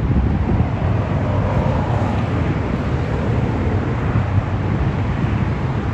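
Steady low rumbling outdoor noise with no distinct events, heavy in the bass.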